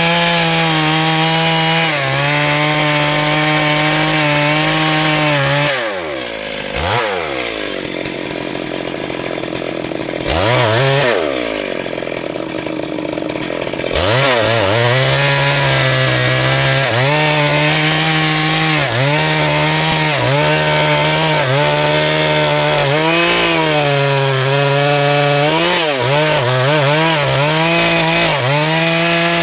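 Chainsaw cutting wood at full throttle. About six seconds in it drops off to idle and blips once, then about fourteen seconds in it revs back up and cuts steadily again.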